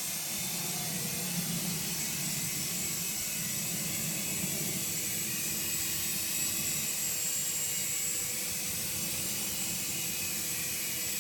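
Small toy remote-control helicopter's electric motor and spinning rotor blades, a steady whir with a thin high whine.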